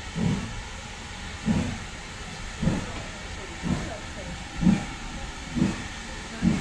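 Steam locomotive chuffing as it pulls away, about seven exhaust beats that come closer together as it gathers speed, over a steady hiss.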